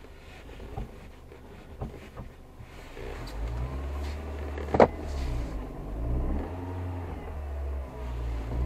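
Car engine running, growing louder about three seconds in with its pitch rising and falling a little as the car starts to move off. A single sharp click about five seconds in is the loudest sound.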